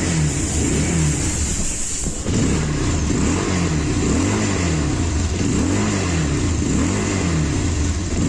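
Bajaj Pulsar 220F BS6 motorcycle's single-cylinder engine through its stock exhaust, revved in quick repeated throttle blips, the pitch rising and falling over and over.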